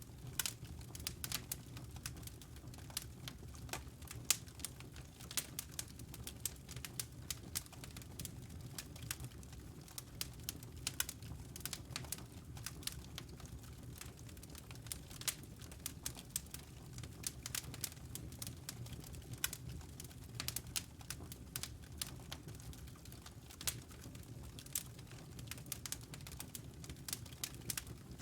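Wood fire crackling in a fireplace: irregular sharp pops and snaps over a low steady rumble of the burning logs.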